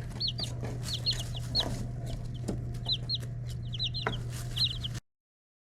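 One-week-old Blue Star chicks peeping: many short, high, arched calls in quick clusters of two to four, over a steady low hum. The sound cuts off to silence about five seconds in.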